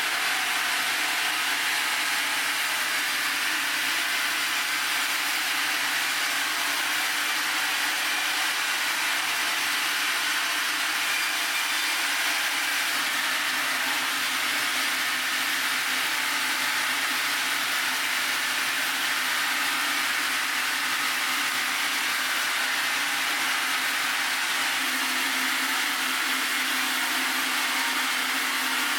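A sawmill saw running steadily through a Kaizuka juniper log, a constant machine noise with no pauses.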